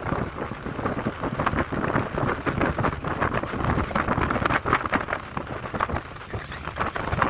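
Wind buffeting the microphone aboard a ship under way at sea, a gusty noise that rises and falls unevenly.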